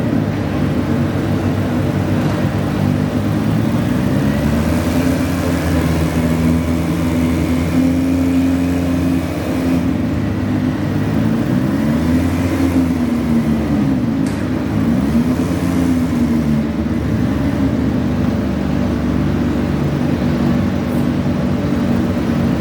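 A garden pulling tractor's engine running loud and steady. Its pitch rises and falls several times as the throttle is worked up and down.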